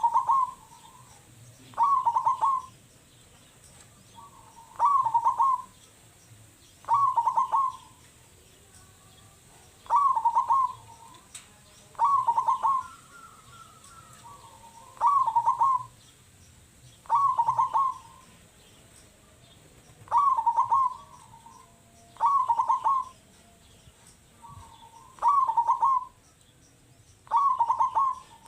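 Zebra dove (perkutut) cooing, repeating its short stuttering song phrase about every two seconds.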